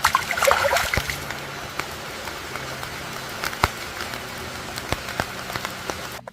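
Steady rain falling on a surface, an even hiss dotted with sharp drop ticks, busier and louder in the first second.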